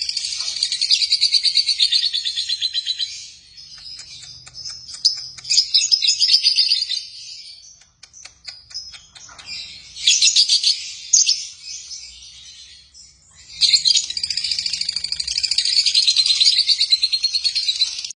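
Lovebirds chirping in rapid, high-pitched chattering bouts a few seconds long, with quieter scattered chirps between them; the longest bout comes near the end.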